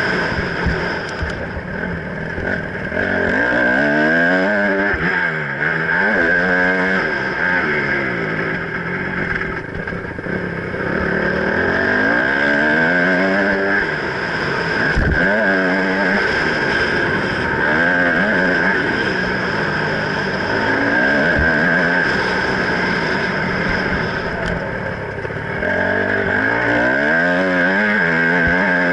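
Motocross bike engine revving up and down over and over as it is ridden around a dirt track, with a few sharp knocks about a second in, midway and about two-thirds through.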